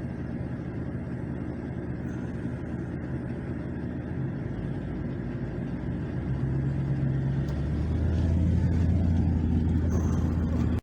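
Steady low hum of a running motor vehicle engine with road-like noise, growing louder over the last few seconds.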